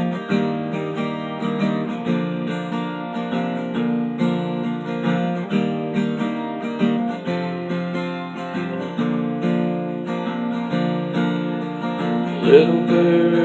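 Acoustic guitar strummed through the song's instrumental introduction, its chords ringing in a steady repeating pattern. Near the end a voice briefly sounds over the guitar.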